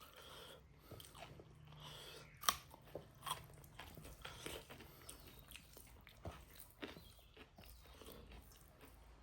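A person chewing and biting into pork and rice close to the microphone, with scattered wet clicks and crunches; the sharpest bite comes about two and a half seconds in.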